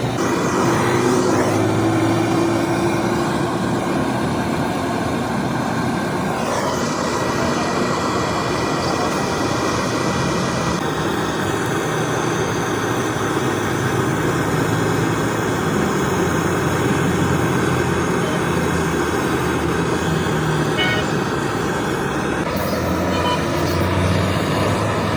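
Steady vehicle and road traffic noise, changing abruptly a few times.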